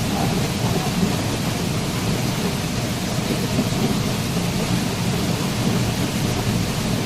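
Waterfall: a steady, dense rush of falling water, fullest in its low rumble.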